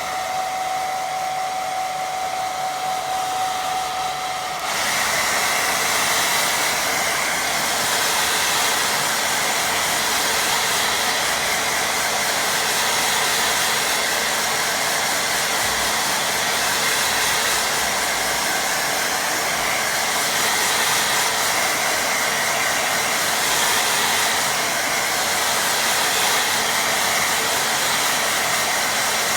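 Hair dryer blowing steadily to dry wet watercolour paint. About four and a half seconds in it gets louder and its whine moves higher, then holds steady.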